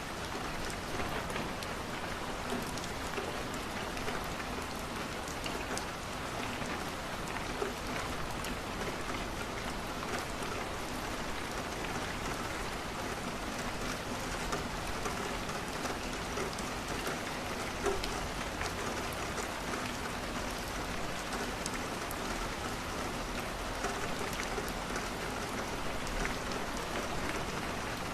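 Steady rain, with scattered small crackles and pops of a wood fire.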